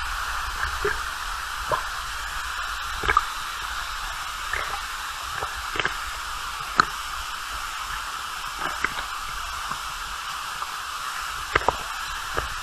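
Waterfall water falling with a steady hiss, with scattered drips and small splashes.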